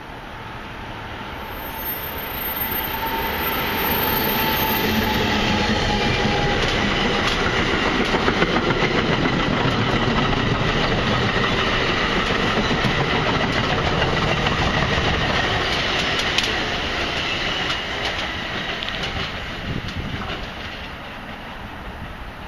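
Passenger train passing through the station at speed. The rumble builds as it approaches, then the wheels clack over the rail joints as the cars rush by, and the sound fades as it pulls away.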